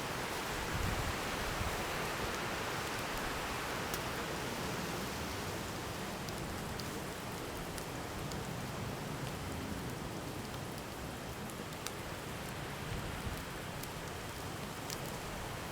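Wood campfire burning: a steady hiss with scattered sharp crackles and pops from the burning wood.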